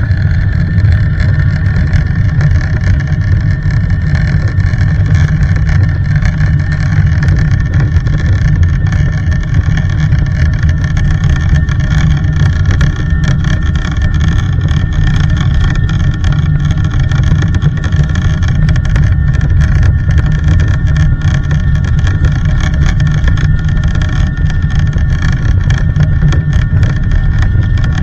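Airliner's jet engines running at takeoff power: a loud, steady deep rumble under a high, steady whine.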